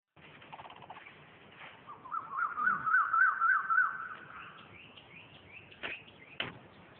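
Birds singing: a loud warbling trill from about two seconds in until about four, then short rising chirps, with two sharp clicks near the end.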